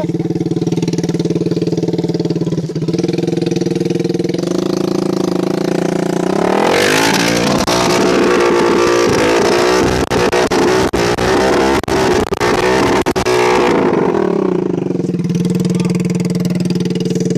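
A vehicle engine running steadily, then revving up about six seconds in and working hard for several seconds with sharp clattering, before easing back to a lower, steady run near the end.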